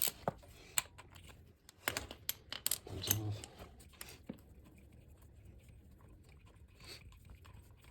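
Quarter-inch ratchet and socket loosening an 8 mm carburetor intake manifold bolt: a few sharp metal clicks over the first three seconds, then only faint handling sounds.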